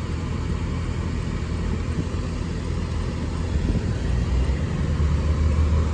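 Steady engine and road rumble heard inside the cabin of a 2015 Nissan Altima S on the move, getting slightly louder near the end.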